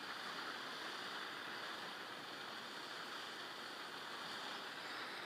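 Steady, even outdoor rushing noise with no distinct events, of the kind made by moving water or wind.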